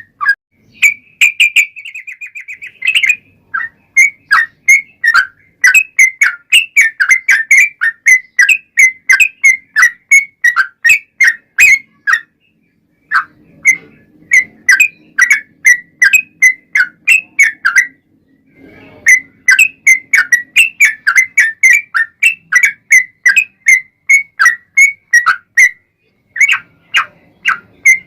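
Sooty-headed bulbul (trucukan) singing long runs of short, sharp whistled notes, about three to four a second. There is a quick trill about two seconds in and brief pauses about 12 and 18 seconds in.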